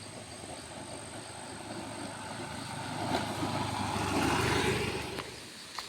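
A passing engine, rising from about two seconds in to its loudest near four to five seconds, then fading away.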